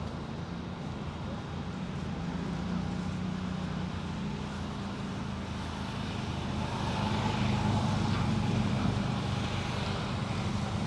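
A steady low engine hum that slowly grows louder, loudest in the second half.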